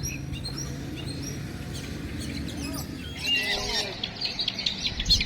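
Several caged songbirds singing and chirping at once: a steady stream of quick, high chirps, joined from about three seconds in by louder, arching whistled phrases lower in pitch.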